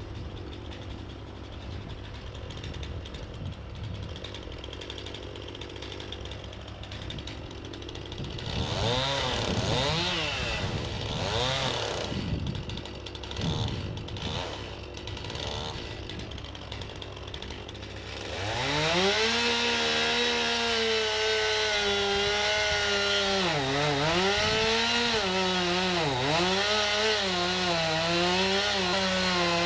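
Chainsaw idling with a few brief revs, then held at full throttle from about two-thirds of the way in. While it runs flat out its pitch sags and recovers several times as it cuts into the trunk of a tree being felled.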